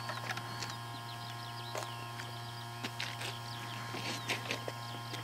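Small birds chirping, many short rising and falling calls, over a steady low hum, with a few small clicks.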